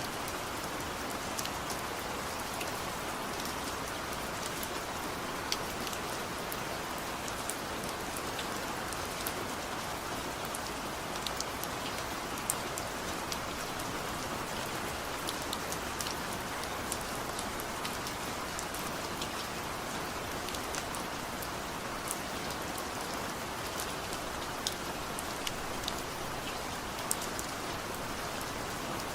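Steady rain falling, an even hiss with scattered sharp drip ticks of individual drops landing.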